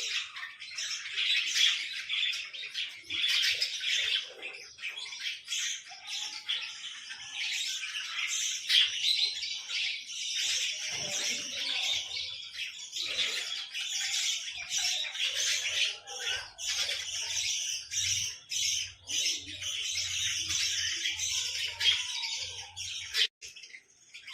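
A group of small birds chirping and squawking in a continuous high-pitched chatter, with one sharp click near the end.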